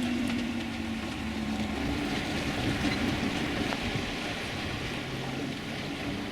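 Steady rush of wind and water aboard a sailing yacht running under the jib alone, with a low steady hum that fades out about two seconds in.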